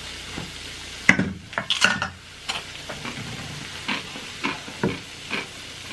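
Crunching and chewing of cheese-coated Takis and hot Cheetos: irregular crisp crunches starting about a second in and coming every half second or so.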